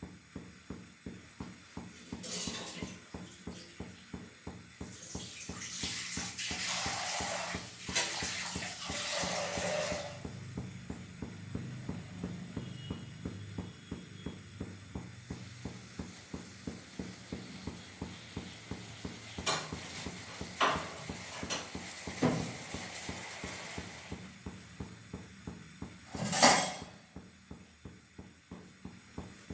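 Pots and metal utensils being handled in a kitchen: a few sharp clanks, the loudest near the end, with a rustling scraping stretch early on, over a steady fast ticking.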